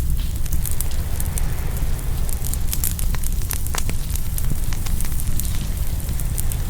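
Open wood fire crackling and popping, with many sharp snaps, over a steady low rumble of ocean waves.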